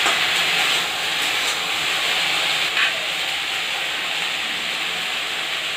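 Taro root pieces frying in hot mustard oil in a kadhai: a steady sizzling hiss, with a brief faint click about three seconds in.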